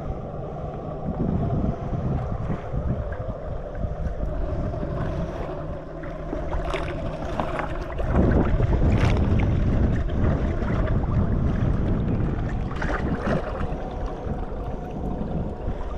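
Wind buffeting the microphone out on open water, a steady low rumble that gets louder about halfway through, with a few short knocks.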